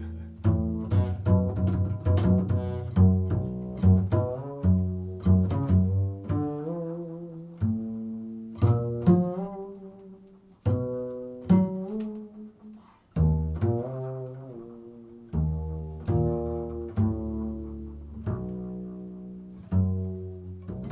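Improvised solo music of low plucked string notes, each struck sharply and ringing away, one after another, with a few notes sliding in pitch.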